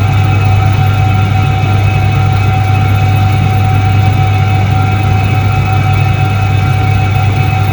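A 1978 Soviet Iset-3 washing machine running with a steady, loud hum: a deep electric-motor drone with a fixed higher tone over it.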